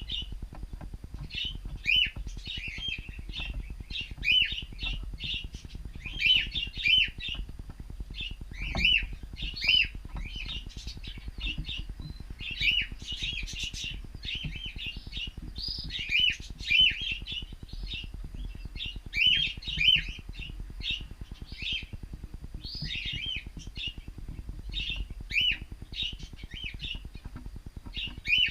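Cockatiels chirping and calling, short repeated chirps coming in clusters every second or two.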